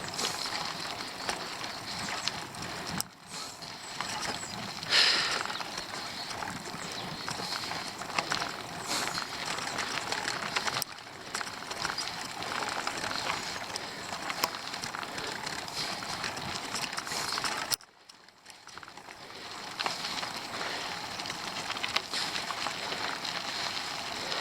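Steady rolling noise of a bicycle climbing, with scattered light clicks. It drops away briefly about three seconds in and again near eighteen seconds.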